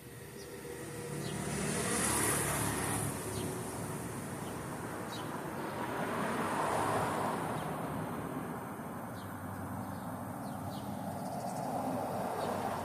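Road traffic: vehicles passing one after another, the noise swelling and fading three times, with faint short bird chirps in between.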